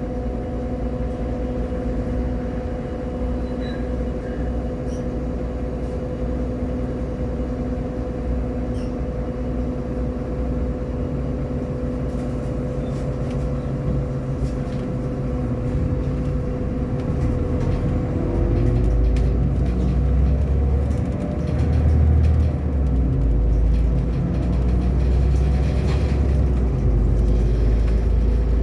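Irisbus Agora L city bus running: diesel engine rumble with a steady whine over it, the rumble growing louder about two-thirds of the way in.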